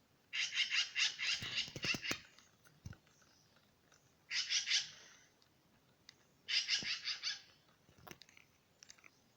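A bird calling in three bursts of rapid chattering: a long burst of about two seconds at the start, then two shorter ones about four and six and a half seconds in.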